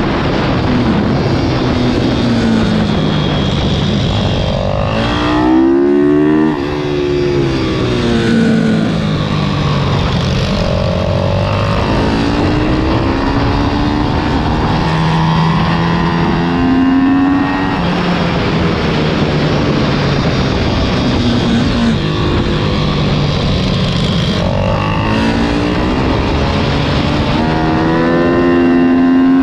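Single-cylinder four-stroke pit bike engines ridden hard, revving up and falling back over and over with throttle and gear changes. At times two engines at different pitches are heard together.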